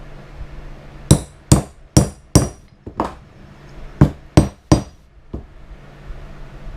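Hammer blows on a metal leatherworking tool, sharp ringing strikes: five in a row at about two a second, a short pause, then three more and a last light tap.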